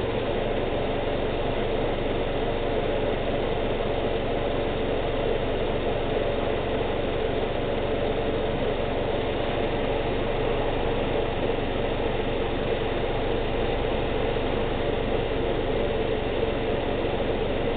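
2012 Subaru Outback's flat-four engine idling steadily, running to bring the CVT fluid up to temperature for the level check.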